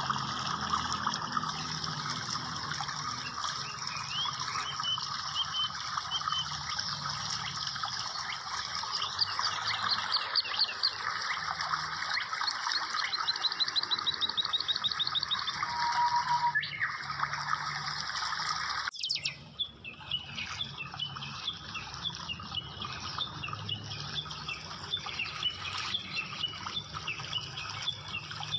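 Birds chirping and twittering over a steady rushing hiss, with fast, evenly spaced trills near the middle. The sound breaks off abruptly about two-thirds of the way through, then the chirping carries on.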